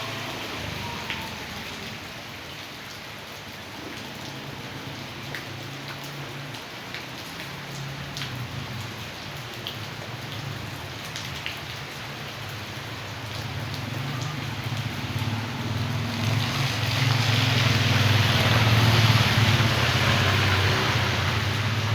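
Heavy rain falling, with scattered drops ticking sharply. A low rumble from a passing vehicle builds up in the last third and peaks near the end.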